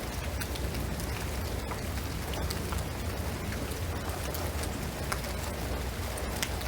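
Steady rain on a shingled roof and pine trees: an even hiss of rainfall with many scattered individual drops ticking, over a steady low rumble.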